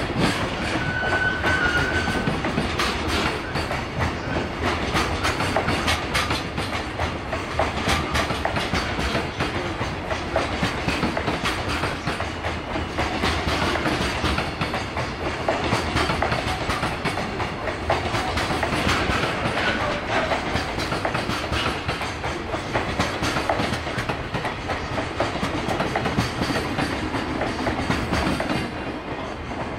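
Freight train's container wagons rolling past, their wheels clattering over rail joints in a continuous clickety-clack. A short high wheel squeal comes about a second in.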